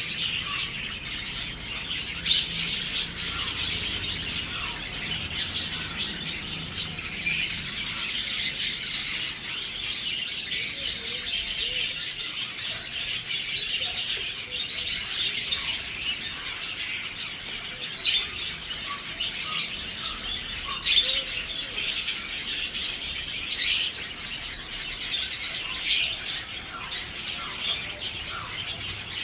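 Budgerigar chatter: a steady, busy stream of quick chirps, warbles and clicks.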